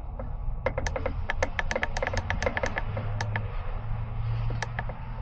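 Rapid, irregular clicking, like fingers tapping keys or buttons, over a steady low hum; the clicks come in a quick run that stops about three and a half seconds in, with one more near the end.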